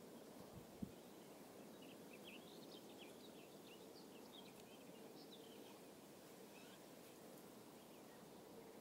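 Near silence with faint birdsong: a run of short, high chirps for a few seconds, and one sharp click just under a second in.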